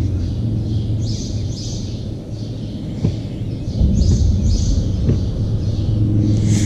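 Small birds chirping in short repeated phrases of two or three notes, over a steady low hum. There is a knock about three seconds in, and the hum grows louder about a second later.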